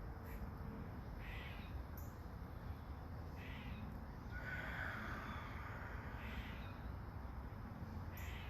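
A bird calling: short calls about every two seconds, with a longer, louder call near the middle, over a steady low background hiss.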